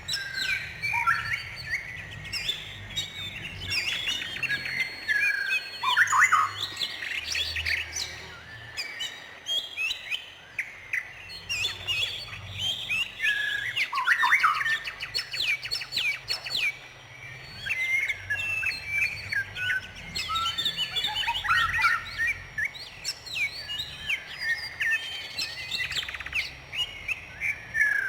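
Songbirds chirping and singing continuously, many quick high notes and short downward-sweeping calls overlapping.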